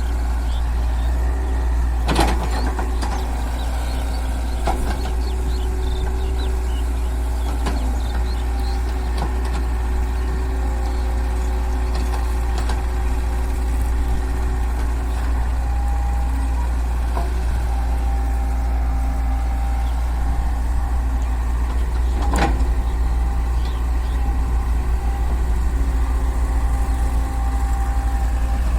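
Heavy diesel engines running steadily with a deep rumble, with a sharp knock about two seconds in and another about twenty-two seconds in.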